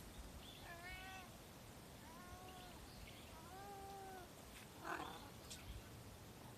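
Calico-tabby cat meowing three times, short calls with the last one longer and lower, followed by a brief noisy rustle that is the loudest moment.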